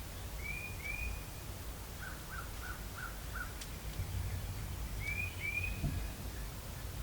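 Birds calling in spring woods: a pair of short arching chirps, then a run of five short evenly spaced notes, then another pair of chirps near the end, over a low outdoor rumble.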